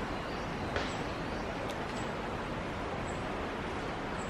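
Steady outdoor background noise with a faint, high chirp repeating about once a second and a single short click about a second in.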